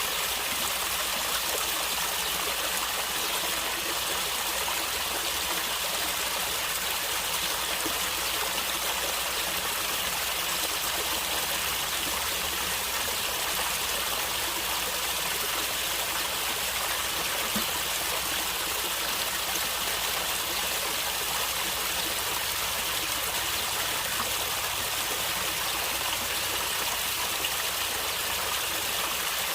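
Water of a stream gurgling and trickling over stones, a steady rush without pause.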